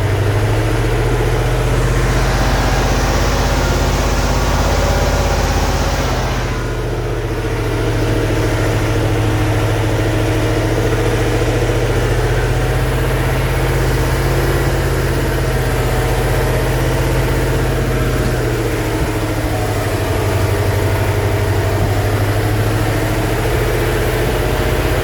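Truck engine running steadily at a low, even pitch, its speed rising slightly about a second in and dropping for a few seconds about three-quarters of the way through before picking up again.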